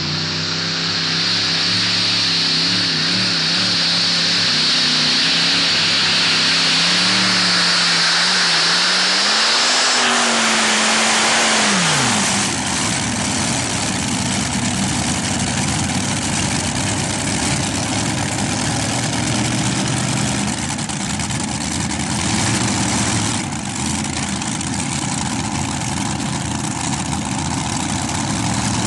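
Multi-engine tractor puller with five V8 engines running hard at full power, the engine note wavering over a loud high hiss. About twelve seconds in the note falls away quickly as the engines are throttled back, and they carry on running at a lower, steadier pitch.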